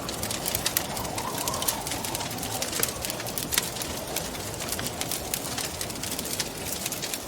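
Wood fire crackling with many small sharp pops, over a steady rush of wind with a faint wavering whistle.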